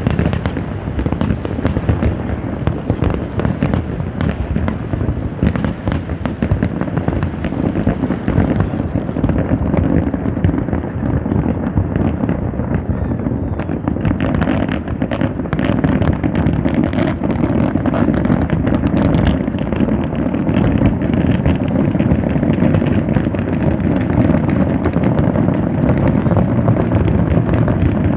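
Aerial fireworks display: a dense, continuous barrage of bangs and crackles as many shells burst in quick succession, growing louder and busier about halfway through.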